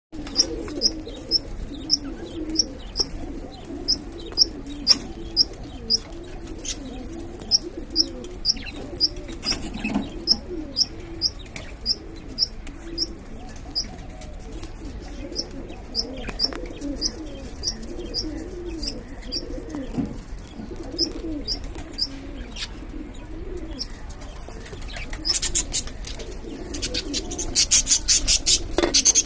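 Budgies chirping in short high peeps, about two a second, breaking into dense chattering near the end, over a steady low cooing of pigeons.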